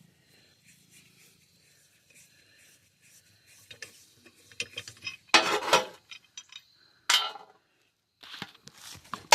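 Metal tools and parts clinking and clanking as they are handled and set down. There are a few light taps, then a loud clattering clank about five seconds in, another sharp clank a second later, and a further clatter near the end.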